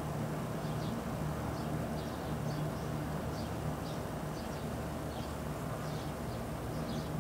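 Small birds chirping over and over in short, quick downward notes, over a steady low hum.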